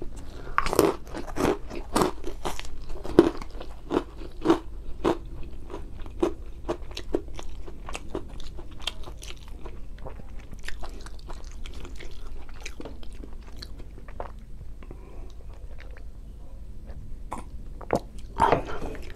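Close-miked mukbang eating: wet chewing and smacking mouth clicks as a man eats rice, grilled fish and boiled egg by hand. The clicks come thick and loud in the first few seconds, thin out in the middle, and pick up again in a louder cluster near the end.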